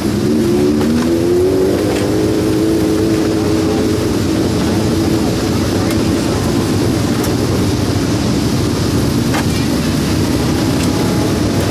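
Race car engine running loud. Its pitch climbs over the first couple of seconds as it revs up, holds briefly, then settles into a steady, dense drone.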